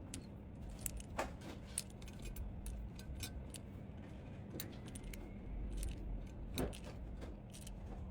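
Small stationery items, most likely pens and pencils, being handled and clicking and tapping against each other in a scatter of light, separate clicks, with a steady low hum underneath.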